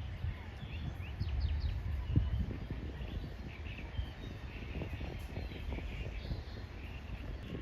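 Birds chirping outdoors: a quick run of short rising chirps about a second in and more scattered calls later, over a steady low rumble with irregular dull thuds.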